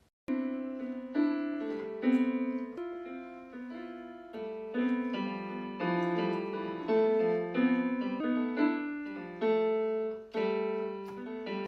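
Solo piano playing a melody over chords, the notes struck and left to ring. It starts abruptly just after the beginning and breaks off suddenly at the end.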